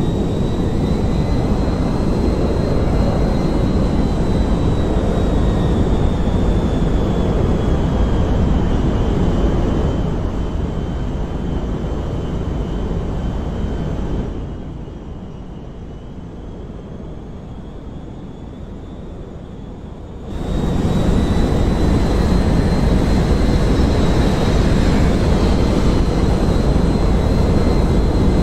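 Jet airliner engines running loud, a deep rumble with a high whine over it that drifts slowly up and down in pitch. About halfway through the sound drops back for several seconds, then comes back loud all at once.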